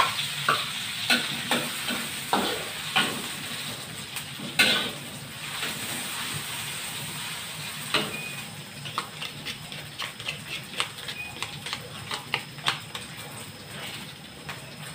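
Dried shrimp (ebi) sizzling as it fries in hot oil in a wok, with a spatula knocking and scraping as it is stirred. The knocks come quicker in the later part.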